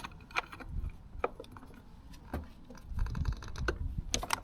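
Hand tools working on a motorcycle's sprocket bolts: scattered sharp metal clicks and clinks, with a quick run of ratchet ticks about three seconds in and a cluster of louder clicks near the end.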